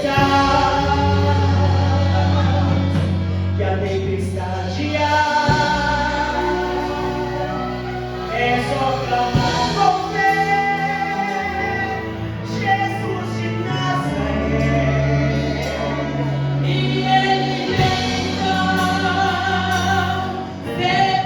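Gospel song in Portuguese, voices singing over instrumental accompaniment with sustained bass notes that change every few seconds.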